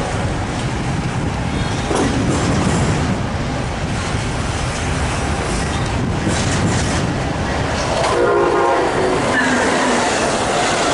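Passenger train 784 passing close by, wheels clattering over the rail joints, with a short horn sounding about eight seconds in.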